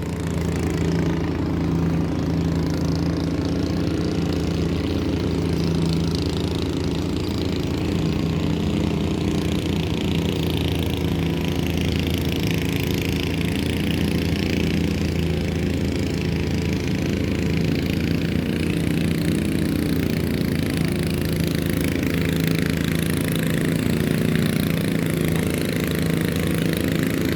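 An engine running steadily at idle: an even, low mechanical hum that holds unchanged.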